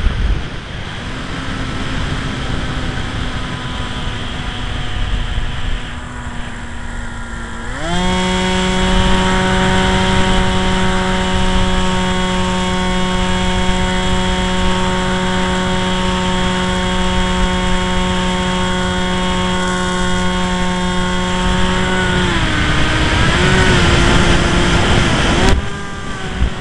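Firebird RC plane's electric motor and propeller whining in flight over wind buffeting the microphone. The whine sweeps up to a higher, steady pitch about eight seconds in, holds there, then wavers and drops near the end.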